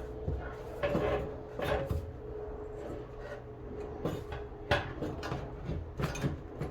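Metal exhaust pipe clunking and scraping in irregular knocks as it is twisted and worked loose under the car, with a faint steady hum underneath.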